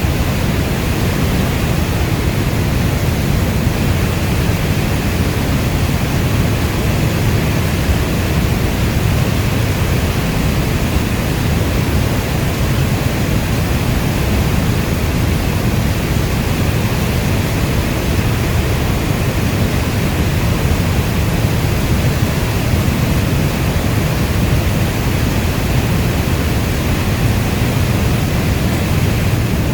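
Steady heavy rainfall, a dense, even hiss with a deep low rumble and no separate drops or thunderclaps.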